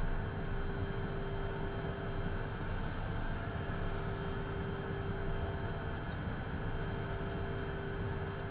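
Steady cockpit noise of a Beechcraft Premier jet on the ground with its twin turbofan engines idling: a constant rumble with steady whining tones on top. A few faint ticks come about three and four seconds in and near the end.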